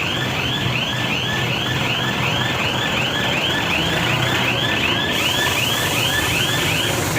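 Diesel forklift engine running steadily under a repeating high-pitched chirp, about three chirps a second, that stops near the end.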